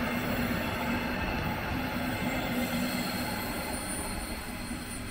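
A train running on the rails: a steady rolling rumble and hiss with a low steady hum, easing off slightly near the end.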